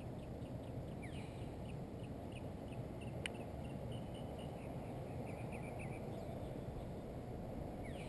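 Steady low outdoor rush with runs of rapid high chirps over it, and one sharp click about three seconds in.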